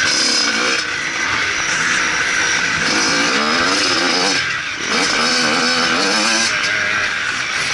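Motocross bike engine revving hard as it is ridden, its pitch rising and falling repeatedly with the throttle, and easing off briefly about four and a half seconds in.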